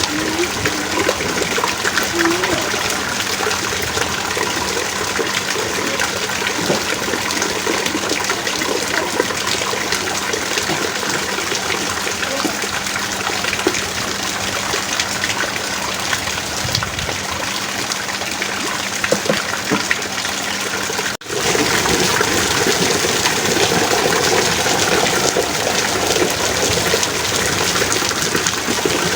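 Heavy rain falling steadily, a dense, even hiss. The sound drops out for an instant about three-quarters of the way through, then resumes.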